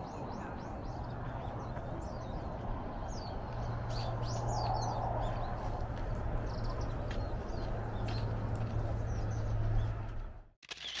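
Small birds chirping, many short high calls, over a steady low rumble of outdoor background noise. The sound cuts off abruptly near the end.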